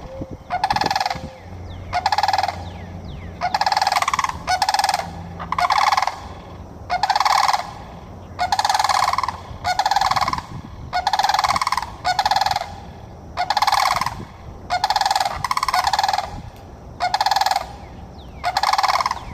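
Sandhill cranes giving their loud rolling bugle calls, one call after another about once a second.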